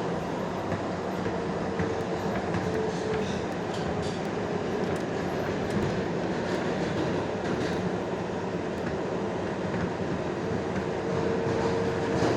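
R142A subway car running at speed, heard from inside the car: a steady rumble and rushing noise with the wheels clicking over rail joints. A faint steady whine comes in for a few seconds at a time, about a second in and again near the end.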